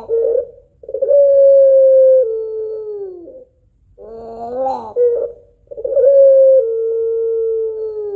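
White puter pelung (ringneck dove) cooing twice. Each call is a short wavering opening phrase followed by a long drawn-out note that steps down once to a lower pitch partway through: the long two-note 'kuwok' ending this contest dove is kept for.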